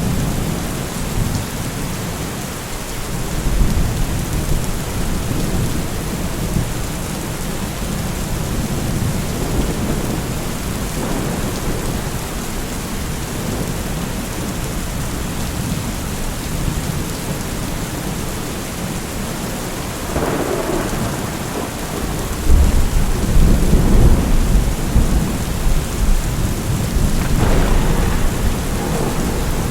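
Steady rain with rolling thunder. The loudest, deepest rumble begins about two-thirds of the way through and keeps rolling to the end.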